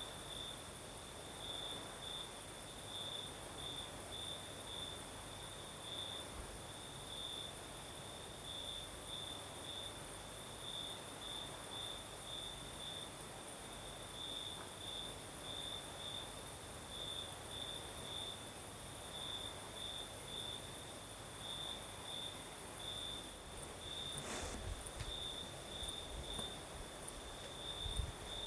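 Crickets chirping at night: one repeats short, even pulses at a middle-high pitch, about two a second, over a continuous much higher trill and a faint hiss of breeze. A couple of brief low thumps come about three-quarters of the way through and again right at the end.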